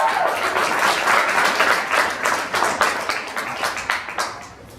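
Audience applauding, many hands clapping together, thinning out and dying away near the end.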